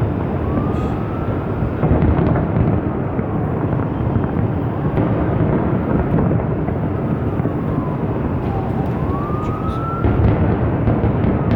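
Large aerial fireworks booming one after another into a continuous rumble, with sharp crackles. A faint siren wails through it, gliding up about a second in and falling then rising again near the end.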